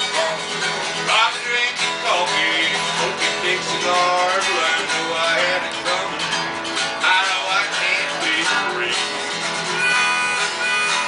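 Acoustic guitar playing country music, with a melody running over the chords.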